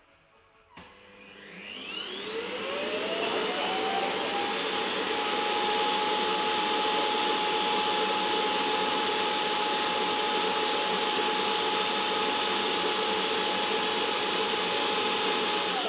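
Cleanova robot vacuum cleaner's motor switching on with a click about a second in, whining up in pitch over a few seconds, then running steadily at full speed.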